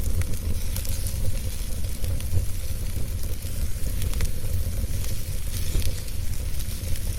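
Wood fire burning steadily, with a low rumble of the flames and a hiss, and many small sharp crackles and pops scattered throughout.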